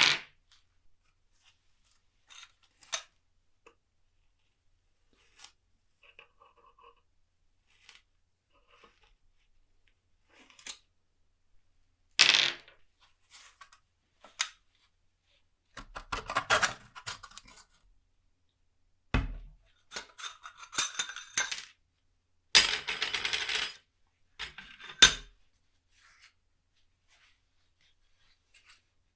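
Small metal parts of an old clock clicking and clinking as they are handled, broken by a few louder, noisy bursts a second or two long.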